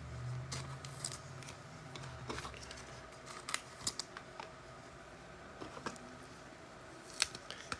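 Scattered sharp clicks and light rustles of trading cards and their packaging being handled, with a low hum during the first three seconds.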